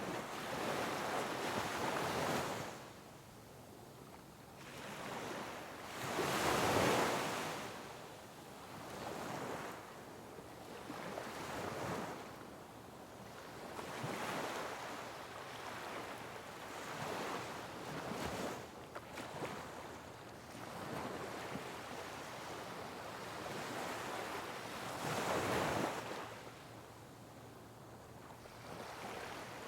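Sea waves breaking on rocks, rising in a rush of surf and falling back in irregular swells, the biggest near the start, at about six seconds and near the end.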